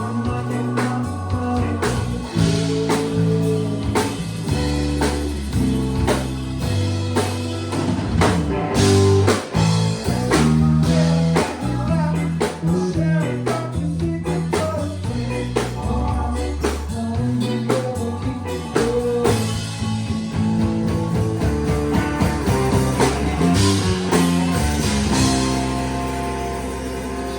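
Band playing blues-rock music with electric guitar, bass, drums and singing, easing off a little near the end.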